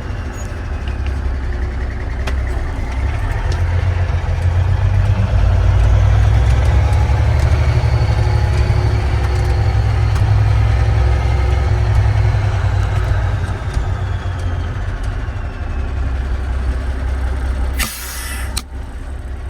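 Diesel engine of a 1983 Kenworth W900 dump truck running, building up louder through the middle and then settling back toward idle. Near the end comes a short burst of air hissing.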